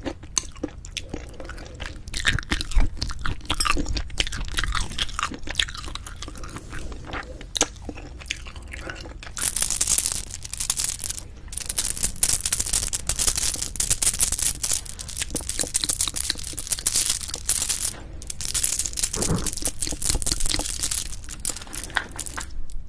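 Close-miked chewing and crunching of food by a person eating. The crunching grows dense and continuous from about halfway through, with a brief pause near the end.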